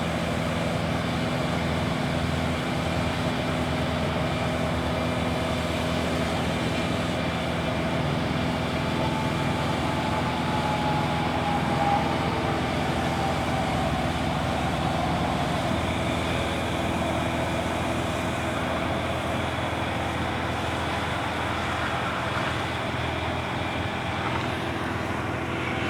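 Boom lift's engine running steadily under load as the boom extends slowly, with a faint pitch glide partway through.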